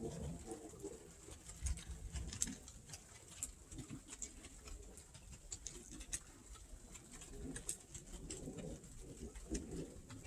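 Faint, low cooing of a bird, coming and going, with many light, irregular clicks scattered throughout.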